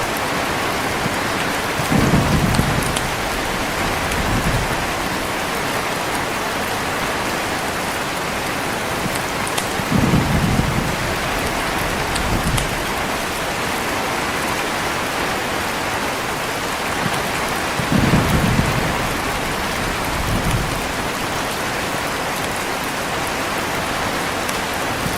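Heavy rain falling steadily, with short low rumbles of thunder coming in pairs about every eight seconds.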